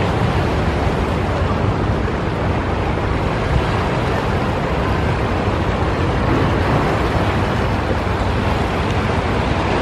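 Steady sea surf and wind, with wind rumbling on the microphone.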